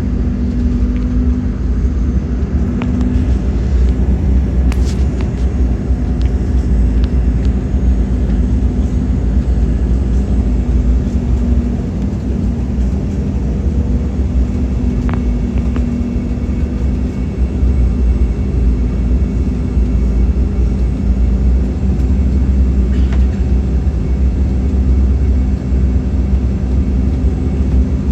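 Steady rumble of jet engines and airflow heard inside the cabin of an Embraer E190 airliner, with a faint wavering hum and an occasional sharp click.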